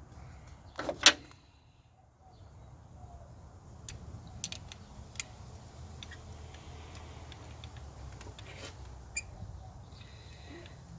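Light metallic clicks and clinks of a socket, extension and bolts being handled while bolts are started by hand, with one short louder clatter about a second in and scattered single clicks after.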